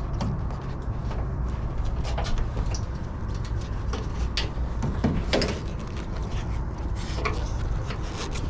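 Hand work on wiring and parts inside an HVAC unit's cabinet: scattered clicks, small knocks and rubbing, busiest about four to five and a half seconds in, over a steady low rumble.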